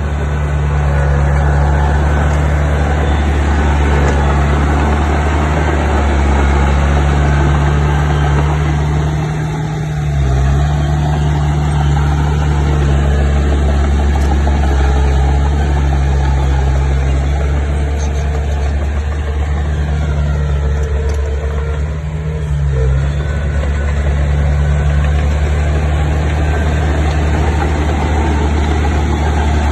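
Bulldozer's diesel engine running steadily, with its note dipping briefly twice, about a third of the way in and again about three-quarters through.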